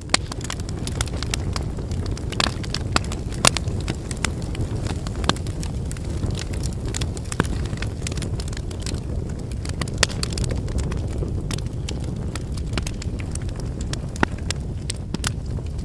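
Wood campfire burning: a steady low rush of flames with frequent, irregular sharp crackles and pops from the burning firewood.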